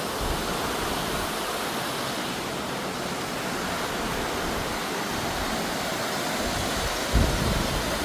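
Makeli Ella waterfall: water falling and rushing in a steady, even roar. About seven seconds in there is a brief, louder low rumble.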